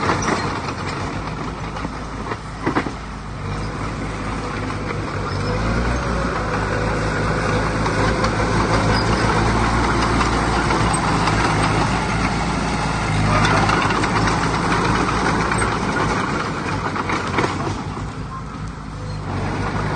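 Diesel engine of heavy earthmoving machinery running steadily, with a couple of short clanks, one about three seconds in and one near the end.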